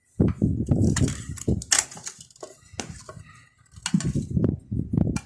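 Handling clatter of a desktop computer power supply and its test leads on the workbench: a run of sharp clicks and dull knocks of metal and plastic, busiest early and again about four seconds in.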